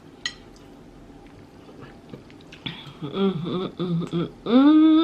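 A woman humming appreciatively with her mouth closed while eating: drawn-out "mm" sounds in the second half, the last one rising and then held. Before that there is only quiet room tone and a small click.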